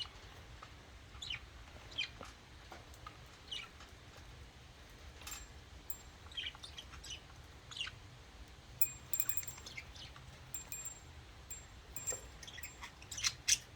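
Budgerigars chirping faintly: scattered short chirps and squeaks, with a few thin whistled notes in the second half.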